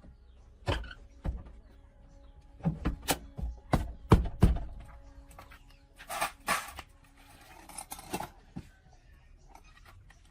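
A run of sharp knocks and clunks of tools and metal parts being handled during engine repair work, loudest about four seconds in. These are followed by two short hissing bursts about six seconds in and a few lighter knocks.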